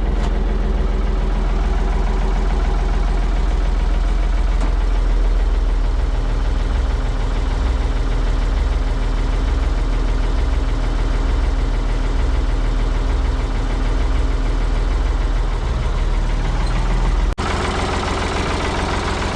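Ford 555 backhoe loader engine running steadily and loud, with a brief dropout near the end.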